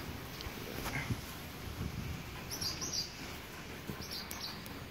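A small bird chirping outdoors: two quick runs of high chirps, about two and a half seconds in and again near four seconds, over a low rumble.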